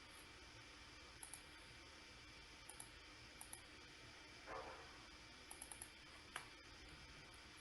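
Faint computer mouse clicks over low hiss, some single and some in quick runs of two to four, with a brief soft rustle about halfway through.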